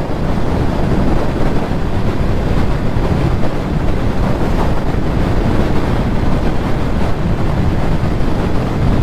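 Steady wind rush buffeting the microphone on a moving Yamaha YZF-R6 sportbike, with the motorcycle running underneath.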